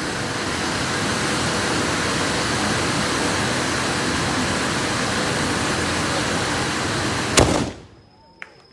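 Firework spraying sparks with a steady rushing hiss, likely a hand-held Mikawa tezutsu bamboo-tube firework, which ends about seven seconds in with a single loud bang.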